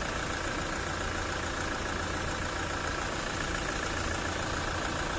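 Toyota 1GD-FTV four-cylinder turbodiesel engine idling steadily with a rough rattle from the timing chain at the front of the engine. The noise is a sign of a stretched, slack timing chain, a common fault on these engines.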